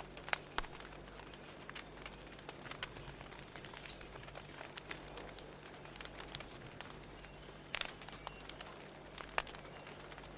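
Wood fire crackling: irregular sharp pops and snaps, a few louder ones, over a soft steady hiss.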